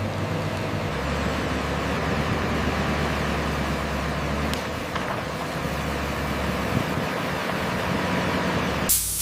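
Diesel engine of a heavy logging machine running steadily, its low drone shifting slightly about a second in. A short, loud, harsh burst of noise comes near the end.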